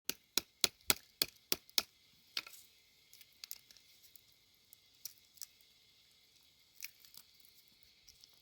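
A quick run of about seven sharp cracks or knocks, roughly three a second, then one more and a few fainter scattered clicks.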